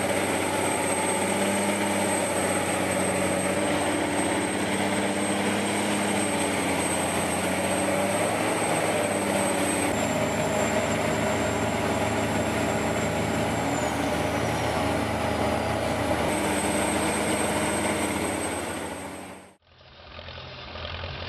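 Heavy tracked farm machine's engine running steadily under a thin high whine, which steps down in pitch about halfway and glides lower a few seconds later. Near the end it cuts off abruptly, and a quieter engine sound takes over.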